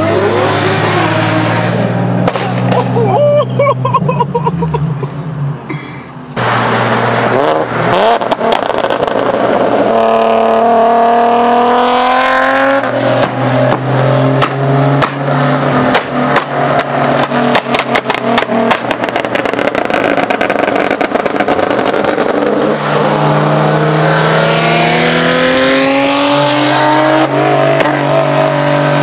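Nissan 370Z V6 engines under way at speed, the exhaust note climbing in pitch as the cars rev and easing off, twice.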